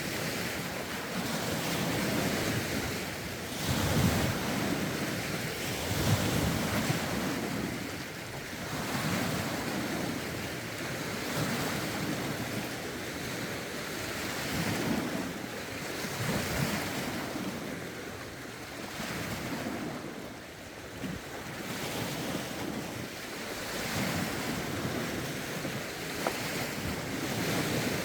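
Lake waves washing in and breaking against the shore, one after another every few seconds, with wind buffeting the microphone.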